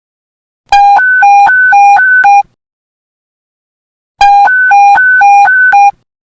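Police panic-button alert tone: an electronic two-tone beep that alternates rapidly between a low and a high pitch, about four changes a second. It sounds in two bursts of nearly two seconds each, the second starting about a second and a half after the first ends.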